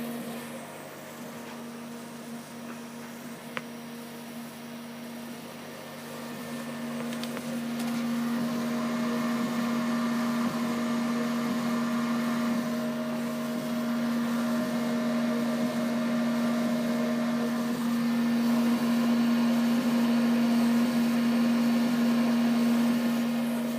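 CO2 laser cutting machine running on test: a steady motor hum with a low tone and fainter higher tones, growing louder about eight seconds in and again towards the end. A single sharp click comes a few seconds in.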